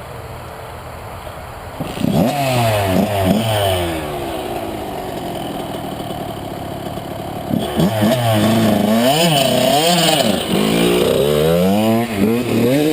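Motocross dirt bike engines revving up and down as the bikes ride past, starting about two seconds in, with a louder stretch of repeated revs in the second half.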